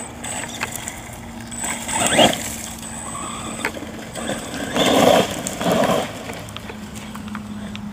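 Redcat Volcano electric RC truck being driven, with three loud rough bursts as it is accelerated: one about two seconds in, then two close together around five and six seconds in.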